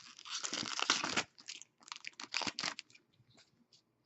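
Foil wrapper of a hockey trading-card pack being torn and crinkled by hand, in two crackly bursts of about a second each, then a few faint ticks.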